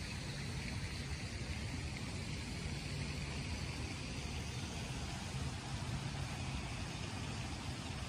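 Steady hiss of rain falling, over a constant low rumble.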